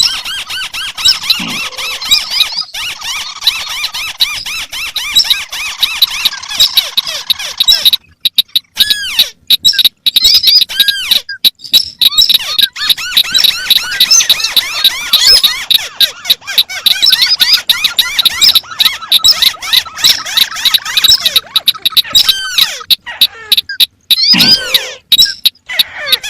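Recorded calls of several crake species, white-browed crake among them, layered over one another and out of step with each other. The result is a dense, loud mass of high squeaky chirps and rapid trills, with a short break and change in the pattern about eight seconds in.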